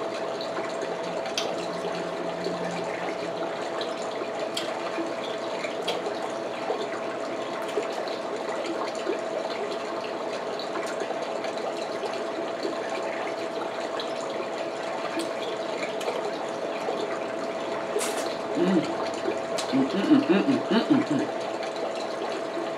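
Steady background hiss like running water, with a faint steady hum. Scattered sharp clicks of crab shell being handled and eaten, and a cluster of louder short mouth sounds about three quarters of the way through.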